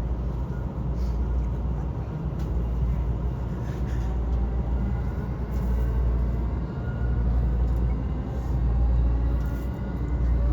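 Commuter train running, heard from inside the carriage: a steady low rumble of wheels on rail.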